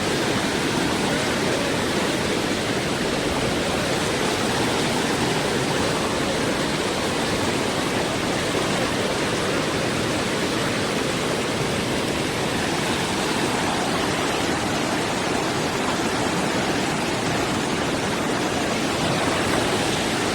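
Rushing floodwater: a steady, unbroken sound of fast-flowing water.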